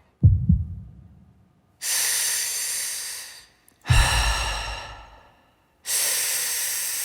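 Loud breathy exhales, each a long hiss of about a second and a half, alternating with deep booming bass hits. These are amplified breath sound effects in the intro of a dance track.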